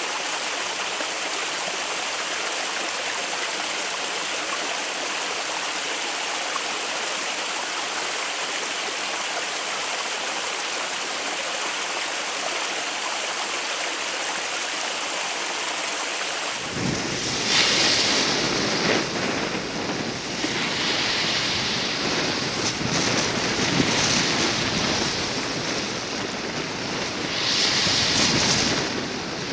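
Mountain stream water flowing in a steady, even rush. About two-thirds of the way through it cuts to a different water recording, fuller and louder, that swells and falls in surges.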